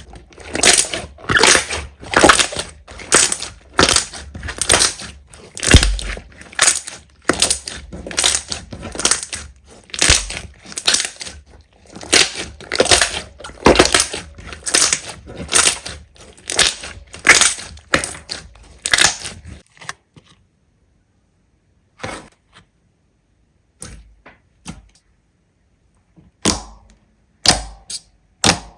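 Slime being pressed and squeezed, each press a crunchy crackling crush, about one and a half a second. The pressing stops about twenty seconds in, leaving a few scattered short clicks and pops.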